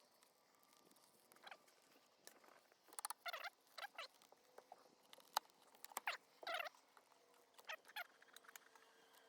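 Faint short squeaks and creaks, several times, from a wooden beehive box being pried open where propolis has glued its parts together.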